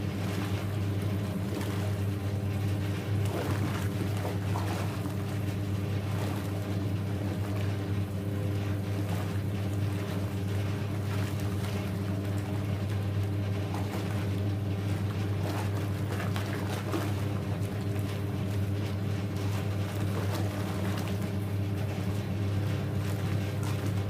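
Hoover 1321A single-tub washing machine from 1968 running a wash: a steady motor hum with water churning in the tub.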